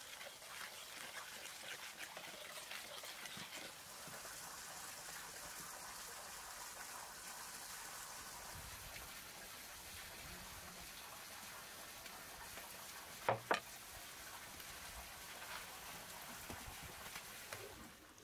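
Light rain falling, a steady even hiss, with two short sharp sounds close together about thirteen seconds in.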